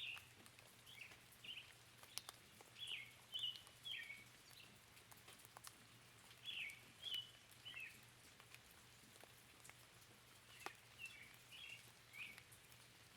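Small birds chirping in short groups of quick notes a few seconds apart, over a faint steady hiss with scattered raindrop ticks.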